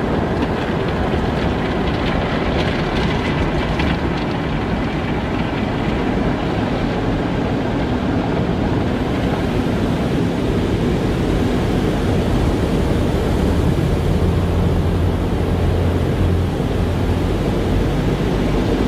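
Automatic car wash machinery running: a steady rushing, rumbling noise, with a low hum that grows stronger about two-thirds of the way through.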